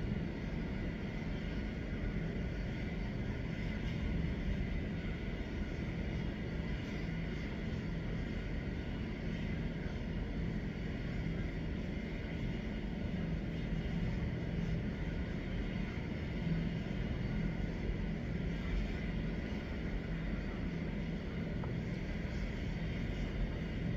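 Medical helicopter's turbine engine running steadily at idle on the helipad, a constant whine over a low hum, before it powers up for takeoff.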